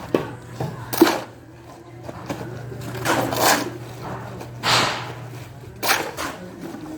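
Irregular knocks and scraping strokes of hand work, about five or six in a few seconds, one of them a longer scrape, over a faint steady hum.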